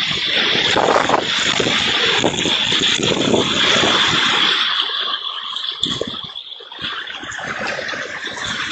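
Heavy rain falling in a steady hiss, louder for about the first five seconds and then easing off.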